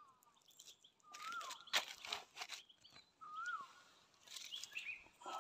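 A bird repeating a short slurred whistle that rises and then drops, followed by higher chirps, about every two seconds. Crunching footsteps on dry leaf litter come between the calls.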